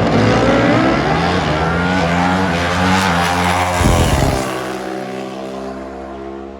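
Pro Stock drag-racing motorcycles accelerating hard down the strip, their engine pitch climbing through the run. About four seconds in there is a short low thump, and then the engine sound fades steadily as they pull away.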